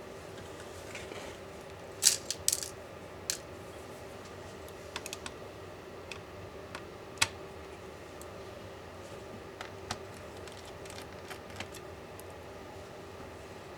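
Small metal parts and tools clicking and clinking on a work surface as a MacBook Pro laptop is taken apart: a quick cluster of clicks about two seconds in, then scattered single ticks, one sharp one near the middle. A faint steady hum runs underneath.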